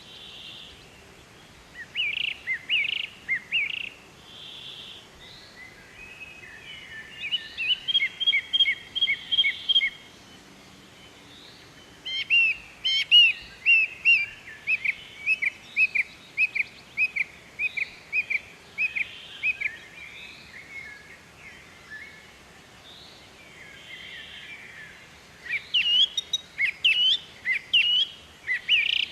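Small birds chirping in bouts of rapid, repeated short high notes, with quieter stretches between the bouts.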